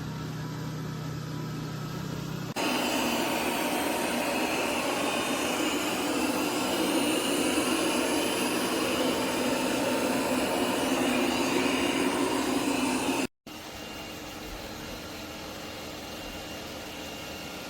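Roborock Saros 10R robot vacuum running its suction fan. A low hum jumps to a much louder rushing whir about two and a half seconds in, stops abruptly near the end, and gives way to a quieter steady whir.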